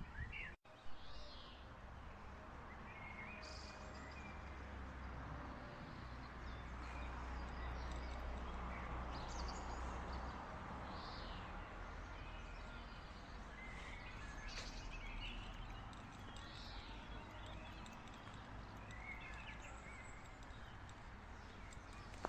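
Birds chirping now and then, short calls every few seconds, over a steady outdoor background hiss and a low rumble. The sound cuts out briefly just after the start.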